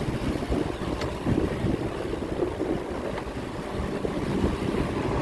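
Wind buffeting the microphone of a moving bicycle rider, an uneven low rumble.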